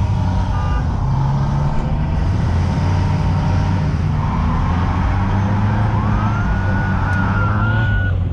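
Loud, steady drone of car engines running close by. Near the end a thin high tone rises and then holds for about two seconds.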